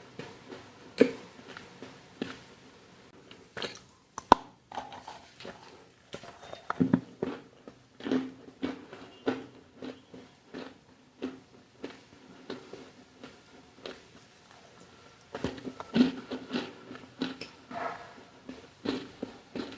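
Crunchy food being bitten and chewed close to the microphone: a run of crisp, irregular crunches, busier about seven seconds in and again near sixteen seconds.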